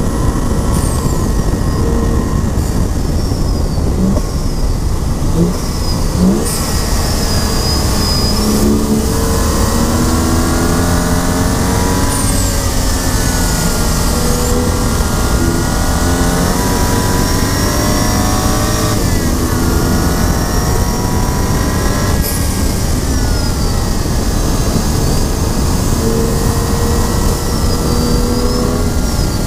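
BMW 135i's turbocharged inline-six accelerating hard through the gears: its pitch climbs and drops back at each upshift, several times in a row, over constant wind and road noise. High whistling tones come and go above it.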